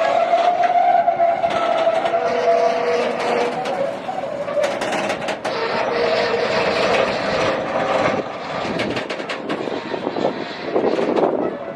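A train moving through the station. A whine sinks slowly in pitch over the first few seconds, then gives way to rattling and clatter with many short clicks.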